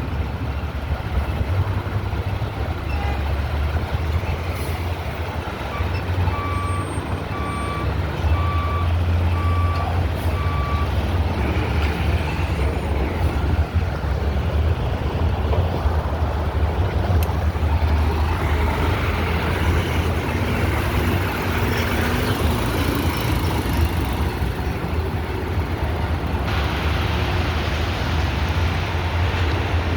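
Diesel engine of a Peterbilt 520 McNeilus Meridian front-loader garbage truck running with a steady low rumble. About six seconds in, its backup alarm beeps five times, about once a second, as it reverses.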